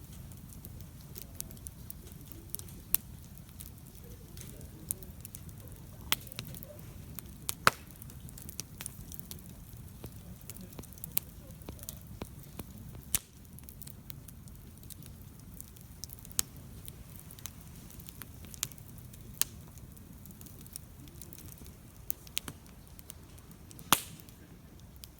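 Wood campfire crackling, with sharp irregular pops of burning wood over a steady low rumble of the flames. One loud pop comes near the end.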